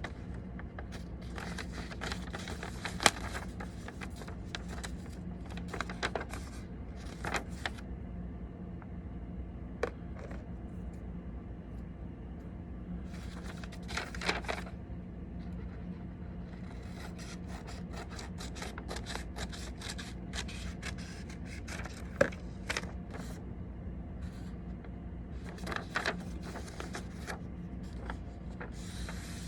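Sheet of paper being folded and creased by hand: intermittent rustling and scraping strokes with a couple of sharp clicks, over a steady low hum.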